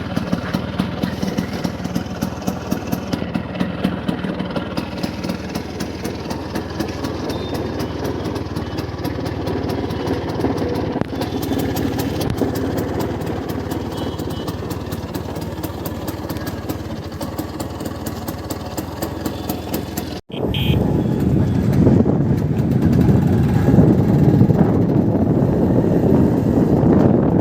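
Bajaj Chetak scooter's two-stroke single-cylinder engine running with a fast, even beat. About twenty seconds in there is a sudden cut, and the engine then sounds louder and rougher, with more rushing noise.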